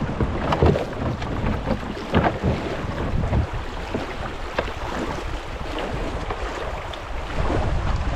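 A kayak moving down a shallow creek: water rushing and splashing around the hull, with a few sharp splashes or knocks, and wind rumbling on the microphone.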